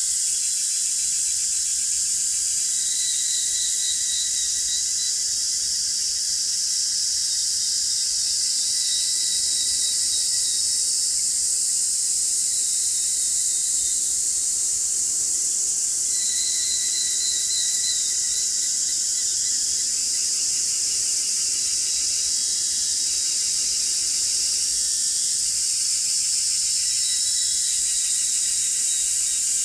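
Summer insect chorus, mostly cicadas singing: a steady high-pitched buzz. A shorter pulsing trill joins briefly a few seconds in, and again about halfway through.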